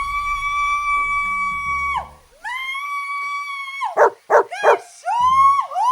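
Dog howling: long, drawn-out howls that slide up in pitch at the start of each and drop away at the end, with a few short yelps between them about four seconds in.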